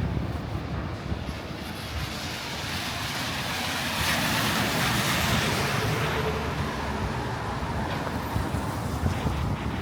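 Street traffic on a wet road: a vehicle's tyres hiss past, swelling to loudest about four to five seconds in and then fading.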